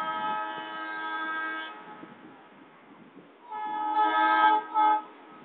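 Train horn sounding: a long blast that cuts off about a second and a half in, then a second blast about three and a half seconds in, ending in a short toot.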